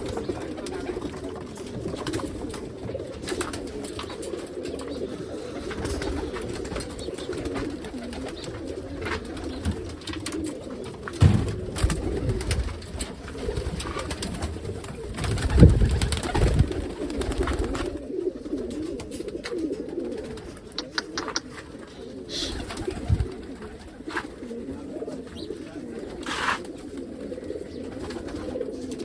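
A flock of domestic pigeons cooing continuously, with scattered clicks and a few louder low thumps, the loudest in the middle.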